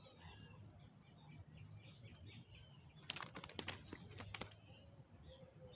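Faint bird chirps over a quiet riverside background, with a few brief rustles and clicks about three seconds in and again about a second later.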